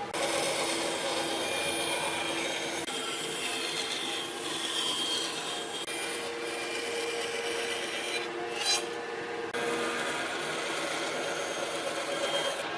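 Continuous rough scraping and rubbing strokes of hand work on a hard surface, with a short break in the hiss about two-thirds of the way through.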